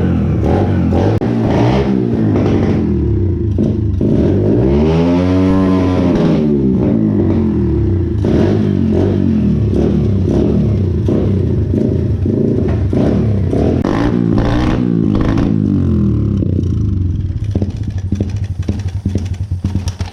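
Stomp 120R pit bike's single-cylinder four-stroke engine running after a carburettor clean, revved up and back down once about five seconds in. It then idles and runs unevenly near the end.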